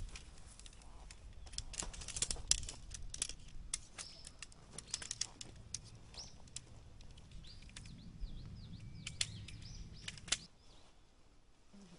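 Irregular clicks and rustles of camping gear being handled by hand, with small birds chirping faintly from about six to ten seconds in. The handling stops about ten and a half seconds in.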